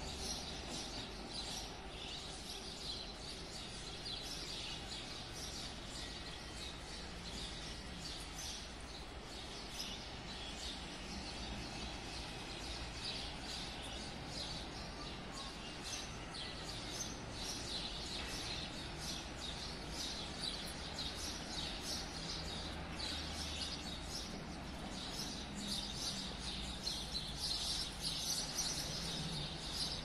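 Small songbirds chirping and twittering continuously, many short high calls overlapping, growing busier and louder near the end.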